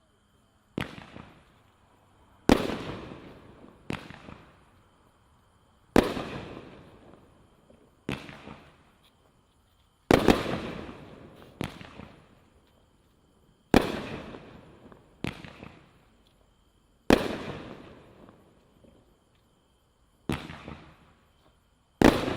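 A 200-gram consumer firework cake firing shot after shot: about a dozen sharp bangs, one every second or two, each fading away over a second or so.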